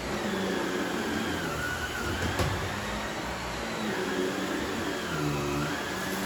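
Vacuum cleaner running on a floor: a steady motor whine and airflow whose pitch dips briefly twice, with a short click about two and a half seconds in.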